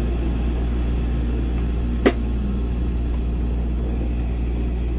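Running noise of a Hankyu 1000 series electric train heard from inside the car: a steady low rumble, with one sharp click about two seconds in.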